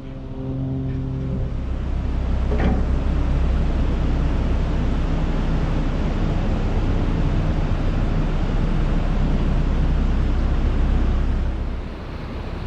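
Loud, steady rushing noise over a deep rumble from a narrowboat underway on the river: its engine running with water and wind noise. The noise drops away near the end.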